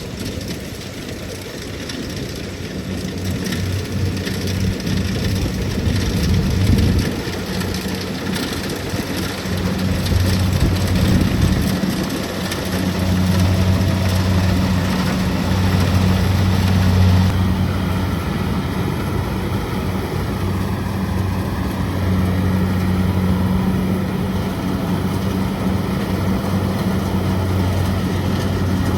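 Kubota DC-70 Plus combine harvester's diesel engine running steadily while harvesting rice, a continuous low drone that grows fuller about a third of the way in.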